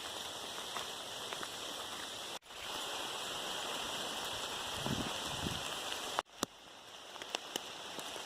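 Steady hiss of falling rain, with scattered drops tapping close by near the end. The hiss breaks off abruptly twice, about two and a half and six seconds in, and a few soft low thumps come around five seconds in.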